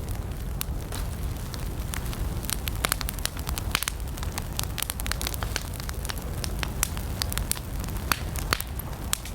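Wood campfire burning, with many sharp irregular crackles and pops over a steady low rumble of the flames.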